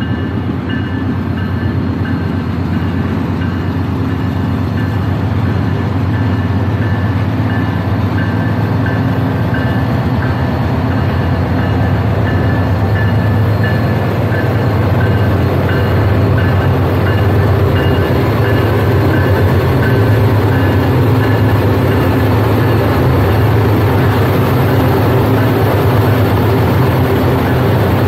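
Canadian Pacific train crossing a steel truss rail bridge: a steady low rumble that grows slightly louder, with thin high-pitched tones coming and going through the first half.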